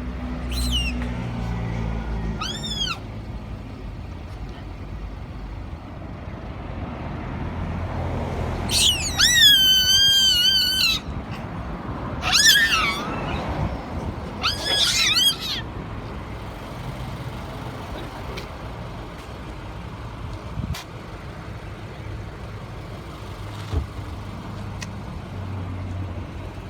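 Monkeys giving several shrill, arching screams, one of them loud and about two seconds long, over the low running of a car engine. These are typical of hamadryas baboons squabbling over food.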